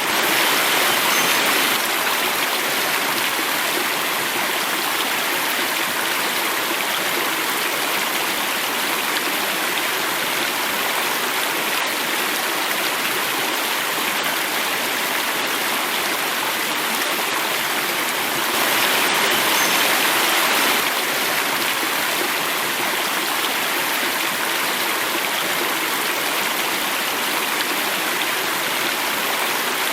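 Running water of a stream or small cascade, flowing and falling in a steady, even rush. It swells slightly louder for the first couple of seconds and again for a few seconds about two-thirds of the way through.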